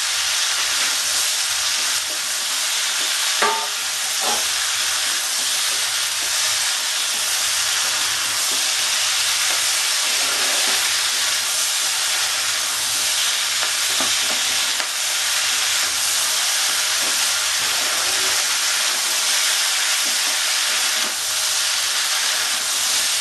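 Mixed vegetables sizzling steadily in hot oil in a kadai as they are sautéed, with a flat spatula stirring and scraping against the pan now and then.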